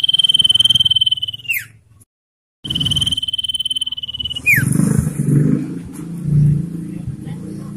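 Common iora giving its long, drawn-out whistle twice: each note is held steady and high for over a second, then slides quickly downward at the end. The two calls are separated by a brief total dropout, with low background noise underneath.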